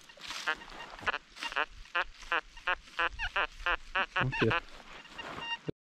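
A bird calling over and over: a rapid series of short calls, about two to three a second, getting louder near the end.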